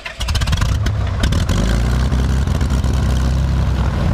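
Piper Lance's six-cylinder piston engine catching on the starter with a rapid clatter of firing strokes, then settling into a steady run. This is a check run after the idle adjustment screw that had been tightened, which kept the engine from coming back to idle, was reset.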